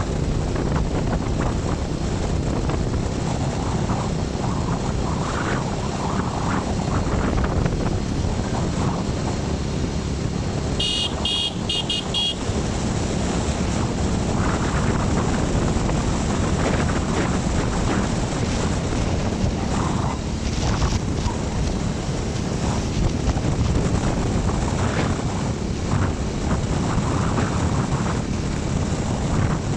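Wind buffeting the microphone over steady road and vehicle noise, as if recorded on the move along a highway. About eleven seconds in, a short high tone pulses for just over a second, like a horn.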